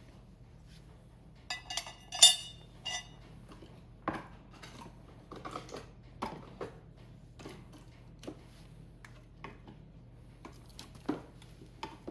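A few ringing metal clinks from about one and a half to three seconds in, the loudest near two seconds. Scattered knocks and crackles follow: a stainless-steel fire stand being handled and loaded with firewood.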